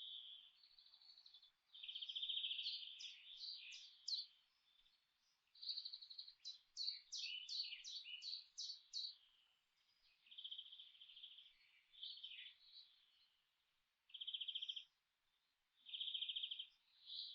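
Forest birds calling: faint buzzy trilled phrases of about a second each, repeated with short pauses, and two quick runs of sharp high notes.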